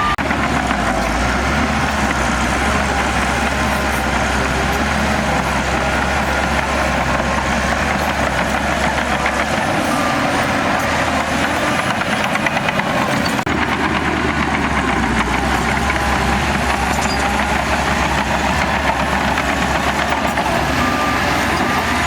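Heavy earthmoving machinery's diesel engine running steadily, with a reversing alarm beeping in short runs a couple of times.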